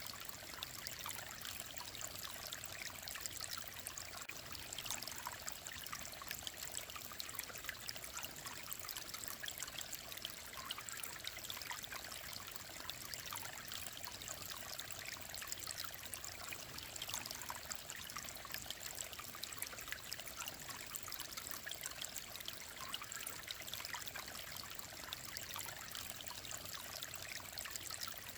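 Mountain stream running steadily: an even rush of water with a constant babble of small splashes.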